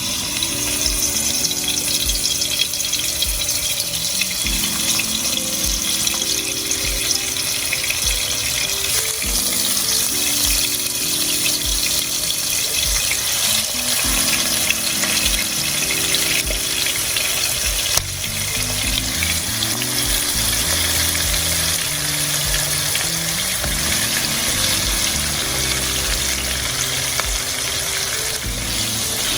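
Food sizzling in hot avocado oil in a pan: a steady frying hiss. Background music plays underneath.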